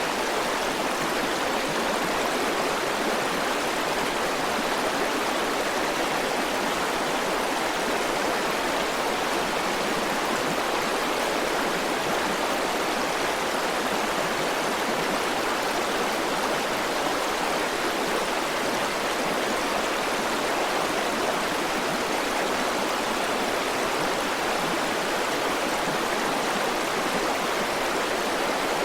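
River water flowing steadily, a constant even rush with no breaks or single splashes.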